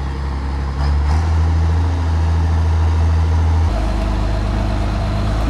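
An engine idling: a steady low hum that shifts in level about a second in and again past halfway.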